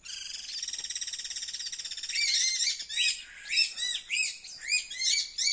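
Several anis calling together: a buzzy chattering trill for about two seconds, then a quick run of short arched call notes overlapping one another. It is the agitated calling of anis around their nest with a hawk close by.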